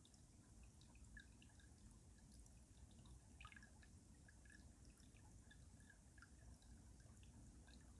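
Faint valley-stream water running under ice: a soft low rumble with many small scattered drips and gurgles, a little cluster of them about halfway through.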